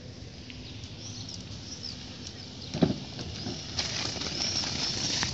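Birds chirping in many short, high calls that grow busier toward the end, with a single sharp thump about three seconds in.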